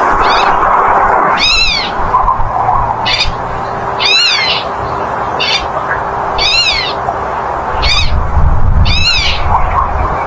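Black-tailed godwit calling: a short note followed by a longer, arched, rising-then-falling call, the pair repeated four times about every two and a half seconds, over a steady background rush.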